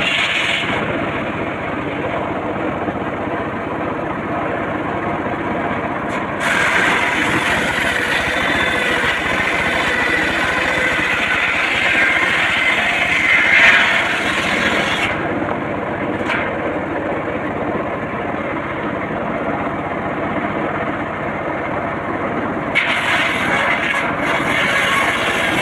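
Homemade circular saw running and cutting mahogany wood, a continuous grinding cut with the machine's motor running under it.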